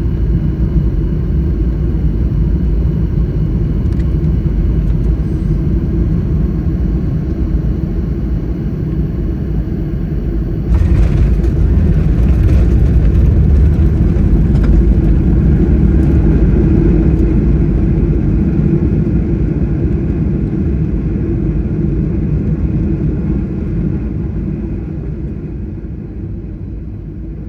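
Cabin noise of a Boeing 737 MAX 9 on landing: a steady rumble of engines and airflow. About ten seconds in, a sudden louder roar comes in, then fades away over the last seconds as the airliner slows on its rollout.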